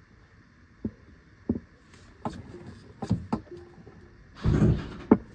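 Footsteps and light knocks as a person walks around a car, then a louder thump near the end.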